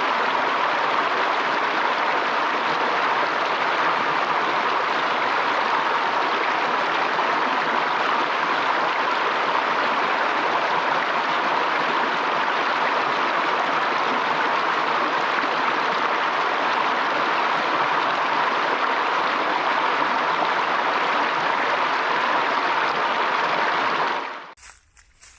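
Flowing water rushing steadily, like a stream, cutting off suddenly near the end.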